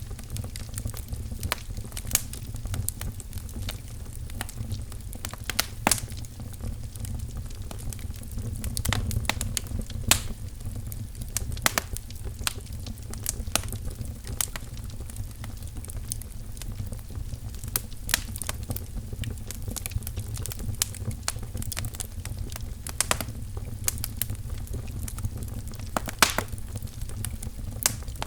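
Wood fire crackling in a fireplace: a steady low rumble of burning logs with frequent irregular sharp pops and snaps.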